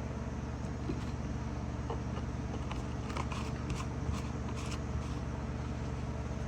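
A steady low hum from a machine in the room, with a few light clicks and taps from something being handled.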